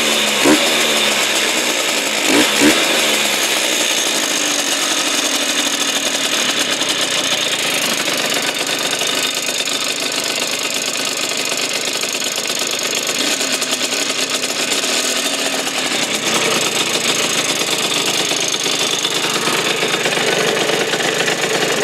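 Vespa two-stroke scooter engine with a Polini 130 cc cylinder kit and 24 mm carburettor running. The throttle is blipped twice in the first few seconds, rising and falling in pitch, then the engine runs steadily.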